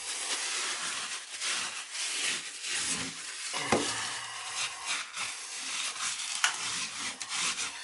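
Continuous scraping and rubbing on a hard surface, with a couple of sharp clicks partway through.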